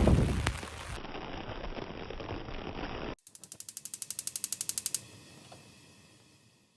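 A mechanism ratcheting: after a second of loud noise comes a dense run of small clicks, then about three seconds in an even, fast train of sharp clicks, roughly seventeen a second, grows louder and stops suddenly about five seconds in.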